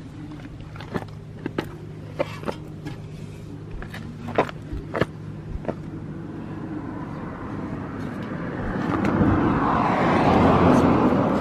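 Honda Super Cub 50 FI's single-cylinder four-stroke engine running with a low steady hum, with a string of sharp clicks over the first few seconds, then a louder, rougher swell that builds to a peak near the end.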